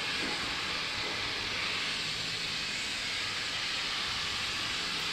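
Sandblasting: compressed air driving abrasive sand out of a blast nozzle in a steady, high hiss that holds level throughout.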